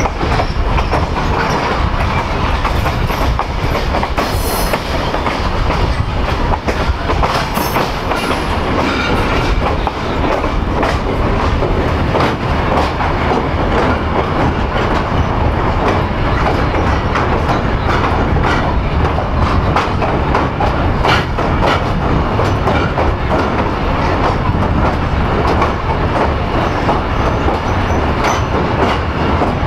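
Passenger train rolling along the track, heard from aboard: a steady rumble of wheels on rail with frequent clicks from the rail joints.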